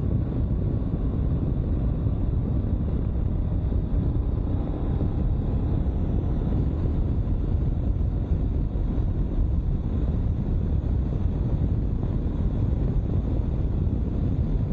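2022 Honda CB500X's parallel-twin engine running at road speed, under a steady low wind rumble on the rider's microphone.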